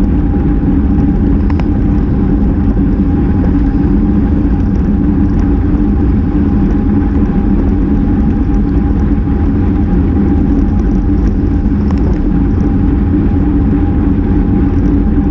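Wind rushing over a GoPro microphone on a bicycle moving at racing speed: a loud, steady roar with a steady low hum running through it.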